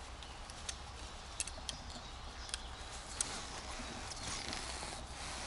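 Faint rustling and a scattering of light clicks from a whoopie sling's cord being handled and untangled.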